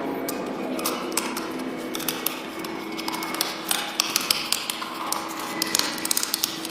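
Irregular small, sharp clicks and taps of laptop parts being handled and worked on.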